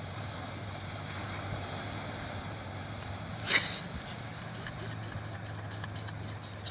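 Toyota Land Cruiser engine running steadily at low revs while the vehicle drives through a stream, with one brief sharp sound about three and a half seconds in.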